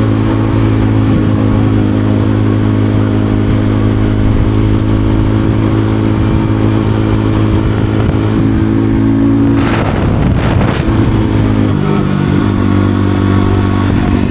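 Motorcycle engine running steadily while riding. About ten seconds in there is a brief rough, noisy patch, and the engine note changes a little after that.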